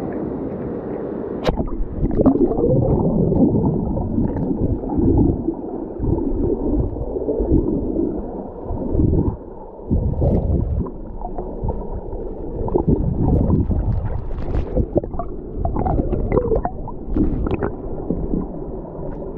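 Muffled, gurgling rush of water in uneven surges, with a few brief sharper splashes late on.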